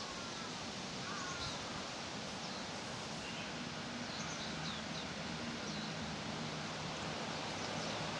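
Outdoor park ambience: a steady wide hiss with faint bird calls scattered through it, several short high chirps and a couple of lower glides in the first second or so. A faint low hum runs through the middle.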